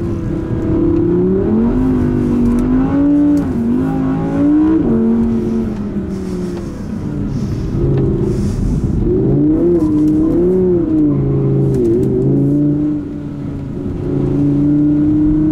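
Audi R8 RWS's naturally aspirated V10 revving up and down several times as the car is driven through a drift, then holding a steady note near the end.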